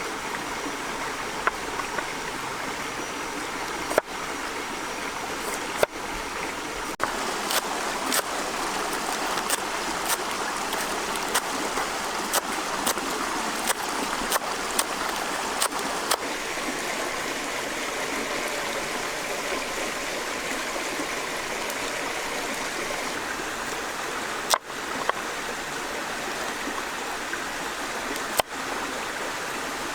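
Steady rush of flowing stream water, with a run of sharp clicks or crackles through the middle and a few abrupt breaks in the sound.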